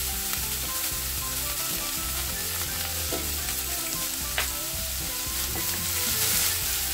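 Grated sweet potato sizzling as it fries in hot ghee in a pan, with one sharp click about four seconds in and a spatula stirring it near the end.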